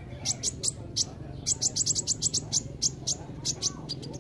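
Kolibri ninja sunbird singing: a quick series of sharp, high chirps that come fastest in a rapid run through the middle, over a steady low hum.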